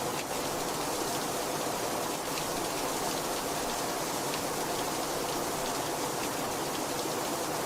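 Steady heavy rainfall, an even hiss with scattered individual drop ticks.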